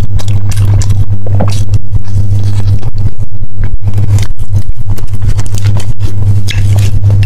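Close-miked chewing of soft yogurt cheesecake with strawberry jam: many short wet mouth clicks and smacks, over a loud, steady low hum.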